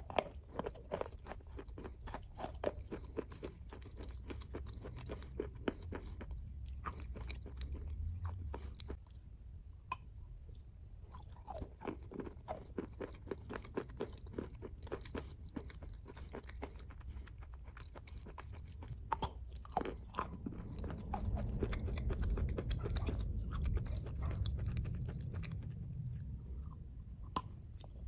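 Close-miked chewing and crunching of a chunk of white chalk coated in wet green clay paste, with many sharp crunches throughout.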